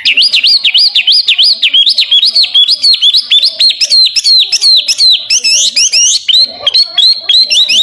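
Chinese hwamei singing a long, loud run of whistled notes, each a quick swooping slur, about three a second. Near the end the notes come faster and shorter.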